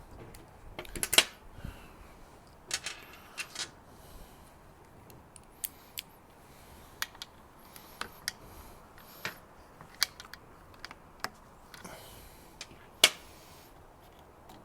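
Irregular sharp clicks and light knocks of a screwdriver and small parts being handled during hand work on a petrol hedge trimmer, the loudest about a second in and again near the end.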